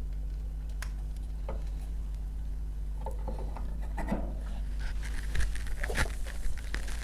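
Freshly lit wood kindling in a stove firebox crackling with sparse sharp clicks. Over the last few seconds, rustling and crinkling handling noise grows denser.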